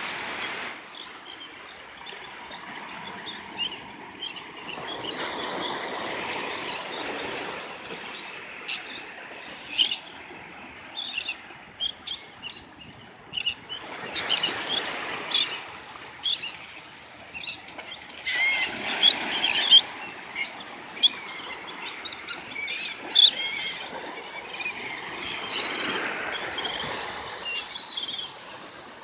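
Many birds calling, with short, high calls overlapping and busiest in the second half, over a rushing background noise that swells and fades.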